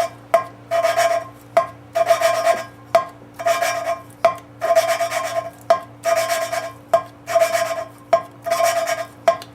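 Valve being hand-lapped into its seat on a Ford 302 cylinder head: lapping compound grinding between valve face and seat as the lapping stick is spun back and forth. A gritty rasp with a slight metallic ring, repeating about twice a second.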